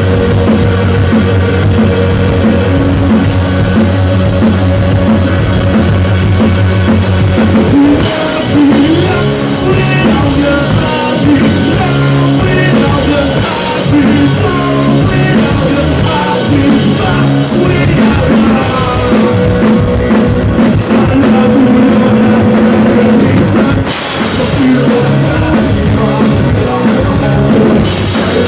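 Live rock music with drum kit, guitar and singing, loud and in poor recording quality.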